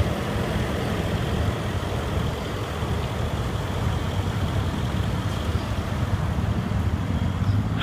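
A vehicle engine idling, a steady low hum with no change in pitch.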